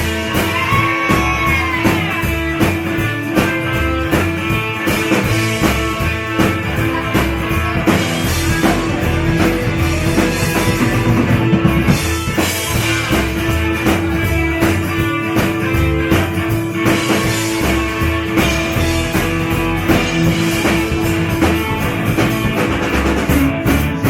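Rock band playing an instrumental break between verses: guitar over a drum kit, with one long held note sounding under most of it and ending near the end.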